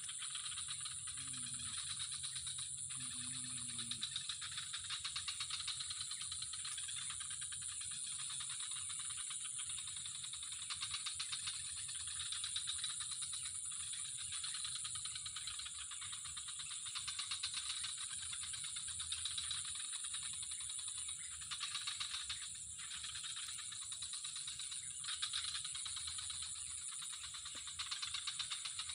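A steady chorus of calling animals: a dense, high, finely pulsing trill that swells and eases a little in loudness.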